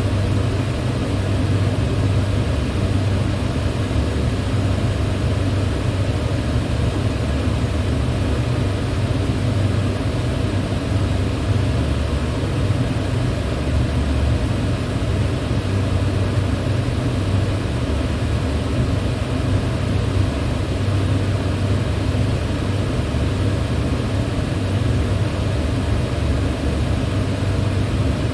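Electric fan running steadily: an even low hum under a broad airy rush that never changes.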